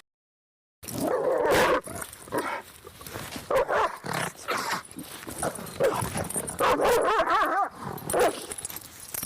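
A dog barking in a series of short calls that starts about a second in, with a longer wavering call about seven seconds in.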